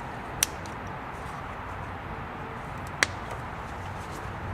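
Two sharp snips of wire cutters clipping the wires of a sewing machine's knee controller out of their crimp connectors, about two and a half seconds apart, over a steady low background hum.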